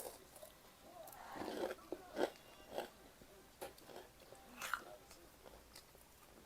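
Close-up chewing and biting with several crisp crunches at irregular intervals, typical of eating breaded fried pork cutlet.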